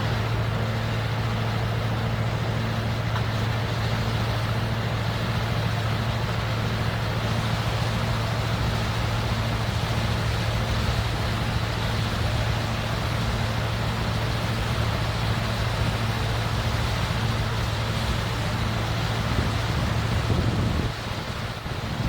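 Case 550E crawler dozer's diesel engine running steadily under work at an even pitch. Near the end the engine sound drops away suddenly.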